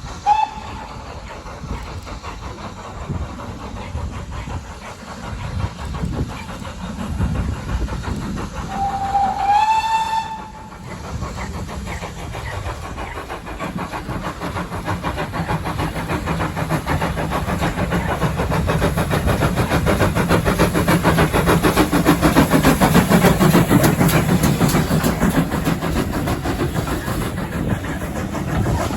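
Locomotive whistle: a short toot at the start, then a longer blast about ten seconds in. The train then runs, getting steadily louder and peaking a few seconds before the end.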